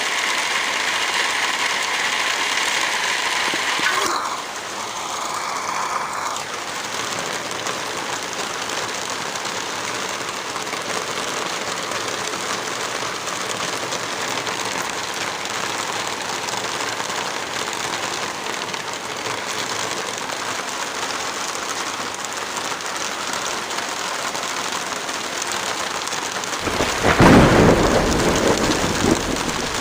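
Steady rain falling, with a roll of thunder that swells up about 27 seconds in and dies away over a couple of seconds.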